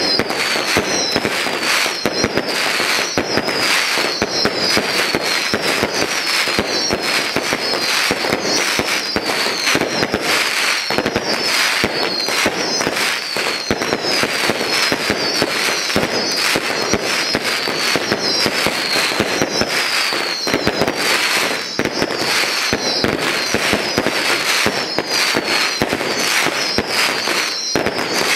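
Daytime aerial fireworks display by Carmine Lieto e Figli: a dense, continuous barrage of rapid bangs and crackling, with high, short falling whistles repeating over it.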